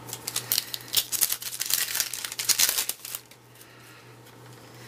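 Crinkling and tearing of a foil baseball card pack wrapper for about three seconds, as the pack is torn open, then it stops.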